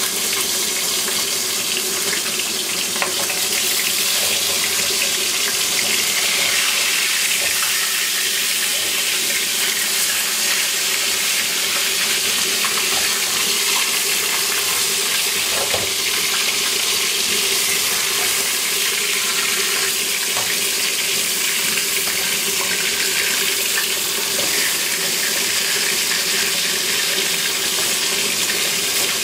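Chicken wings frying in hot oil: a steady sizzle with faint scattered crackles.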